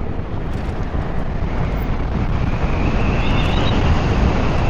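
Wind rushing and buffeting over the microphone while riding a 96-volt electric motorcycle, with no engine sound. A faint high whine from the electric drive comes in about halfway through and rises a little in pitch as the bike picks up speed.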